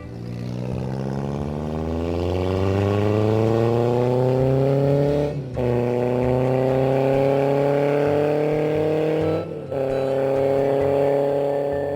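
Motorcycle engine accelerating hard through the gears, its note rising steadily with two brief cuts for upshifts, about five and a half and nine and a half seconds in. The pitch drops slightly at each shift and climbs more slowly afterwards.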